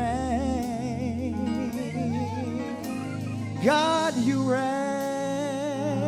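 Live gospel praise music: a singer holds long notes with a wide vibrato over bass guitar and drums, with a louder, higher swell about two-thirds of the way in.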